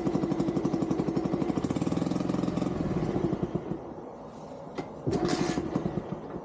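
Small single-cylinder engine of a Dax mini-bike idling with no exhaust fitted, a rapid, even train of sharp firing pulses. The running drops off about three seconds in, surges briefly about five seconds in, then runs weakly; the engine will only idle and dies when the throttle is touched.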